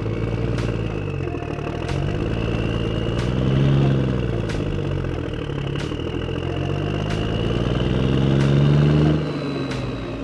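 Tractor-like engine sound with its pitch swelling up and falling back twice, and a sharp tick about every 1.3 seconds.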